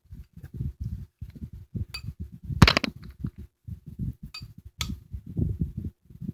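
Kitchen handling noise: irregular soft low thumps and knocks, with a few sharp clinks like a utensil striking a dish, the loudest a little under three seconds in.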